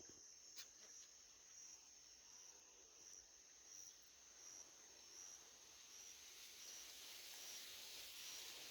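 Faint, steady, high-pitched insect trill, like a cricket, swelling in a regular pulse about every two-thirds of a second. There is a short click about half a second in.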